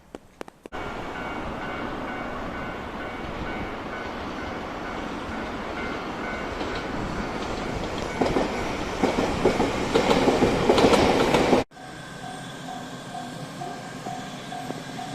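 A Toyohashi Railroad Atsumi Line local train passes over a level crossing, its wheels clacking over the rail joints and growing louder, with the crossing's warning bell ringing under it. The sound cuts off suddenly. A level-crossing warning bell then rings on its own, about two strokes a second.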